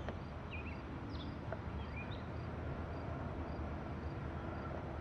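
Several birds chirping and calling at dusk, one repeating a short high note about twice a second, over a steady low rumble.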